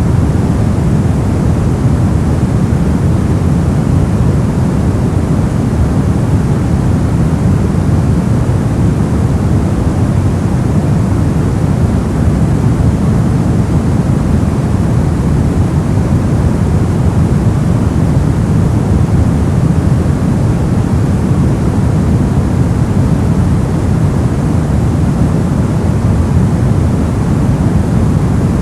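Steady, unchanging noise of the kind sold as white noise for sleep, heavy in the low end so it comes across as a deep, even rush rather than a bright hiss.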